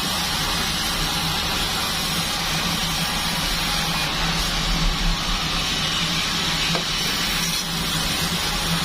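Band sawmill running steadily: a constant low hum with a hiss above it.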